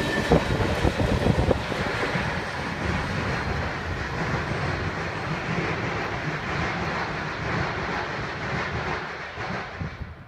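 Freight train tank cars rolling past, the steel wheels clacking sharply over rail joints for the first second or so. Then a steady rumble and rail noise as the last cars pull away, dying down near the end.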